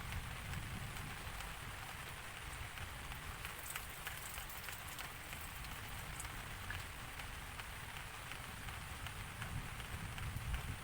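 Steady rain falling, with many individual drops ticking sharply through the even hiss of the downpour.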